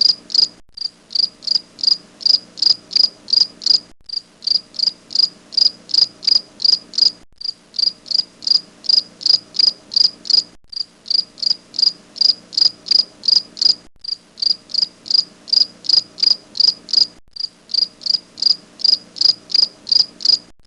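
A cricket chirping steadily in short, even high-pitched chirps, about three a second, broken by a brief gap every three seconds or so.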